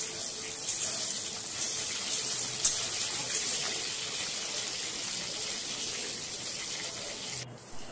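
Chopped green chillies and garlic sizzling in hot oil in a wok: a steady hiss with scattered crackles and pops, cutting off suddenly near the end.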